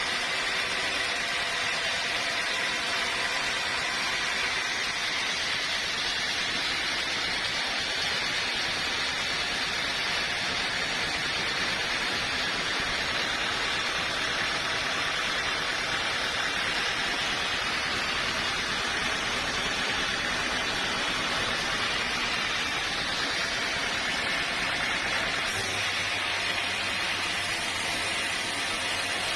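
Sawmill running, a steady, even noise of the saw working through wood. A low hum joins in near the end.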